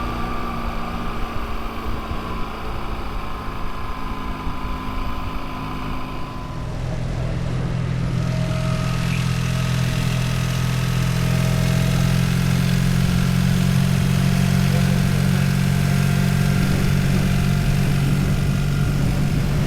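Motorcycle engine running, growing louder about seven seconds in and then holding a steady low drone.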